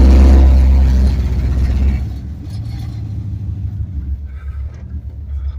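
LS-swapped V8 engine and exhaust rumbling loudly as the car pulls away, then dropping to a quieter, steady deep rumble about two seconds in as the driver eases off.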